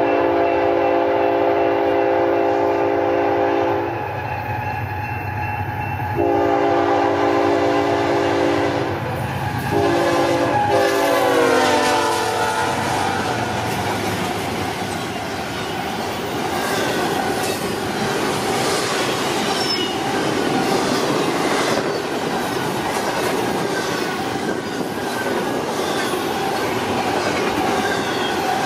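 BNSF freight train's GE diesel locomotives sounding their air horn in long blasts as they approach. The last blast slides down in pitch as the locomotives pass close by. Then the train rolls past with wheels clattering over the rail joints and a little squeal.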